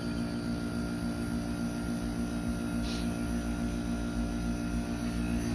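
Heat pump outdoor unit running: a steady electrical hum with several tones, one of them pulsing evenly.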